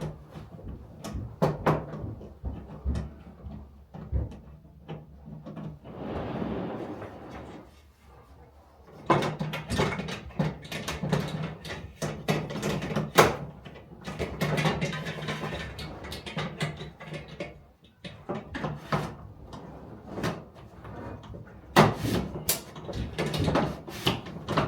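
Light fixture being fitted onto its ceiling mounting bracket: scattered clicks, knocks and rattles of the metal fixture and bracket being handled, with a short scraping stretch about six seconds in.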